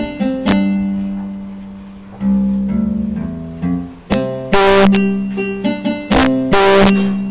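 Electronic keyboard playing a melody with a plucked, guitar-like voice, in changing sustained notes, with two loud crashing hisses, one around the middle and one near the end.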